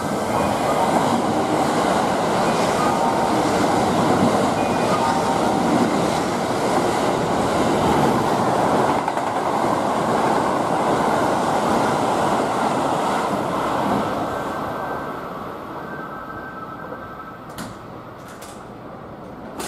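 Kintetsu limited express trains, an 80000-series Hinotori and a 21000-series Urban Liner Plus, passing through the station at speed without stopping. There is a loud, steady rush of wheels on rail for about fourteen seconds, which then fades as the train draws away, with a few sharp wheel clicks near the end.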